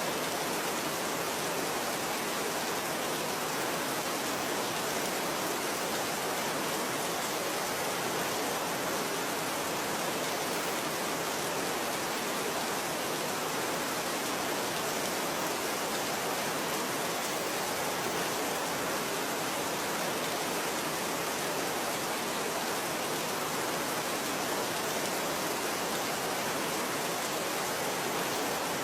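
Steady, even rain falling, with no changes or distinct drops standing out.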